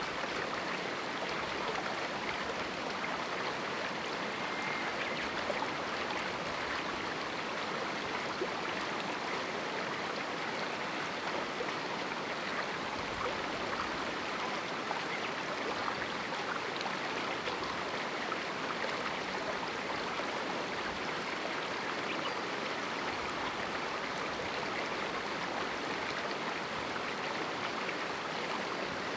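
A shallow mountain river running steadily over rocks in a small canyon, a continuous rushing and babbling with no change in level.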